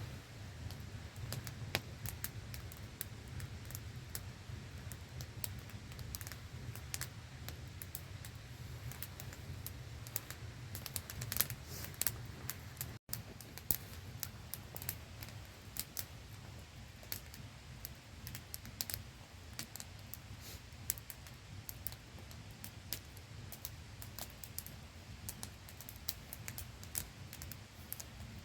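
Wood campfire crackling with sharp, irregular pops and snaps over the steady hiss and low rumble of a small waterfall. The sound cuts out for an instant about halfway through.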